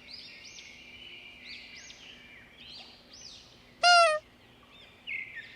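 Birds chirping: repeated short, high chirps over a faint steady hum, with one loud, short call about four seconds in whose pitch rises and then holds.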